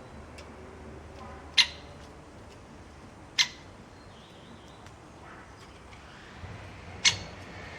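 A bird calling: three short, sharp calls, unevenly spaced, the first about one and a half seconds in.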